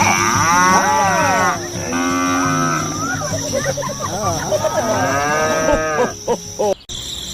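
Cattle mooing: three long calls one after another.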